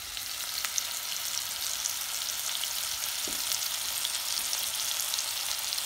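Tuna steak searing in butter in a pot: a steady sizzle, with small pops and spits from the bubbling butter.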